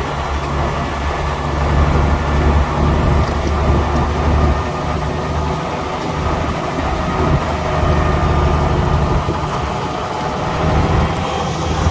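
Diesel engine of heavy earthmoving machinery running under varying load, a continuous deep drone that swells and eases over several seconds.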